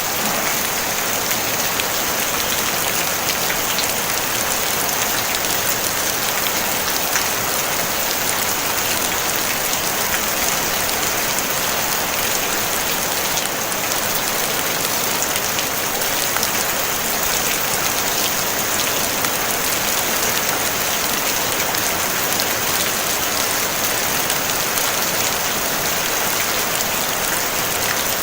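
Steady, gentle rain on a tin roof: an even hiss with a dense patter of drops, without thunder.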